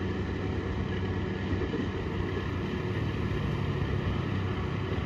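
Diesel-hauled passenger train running through a station: a steady rumble with a low hum underneath.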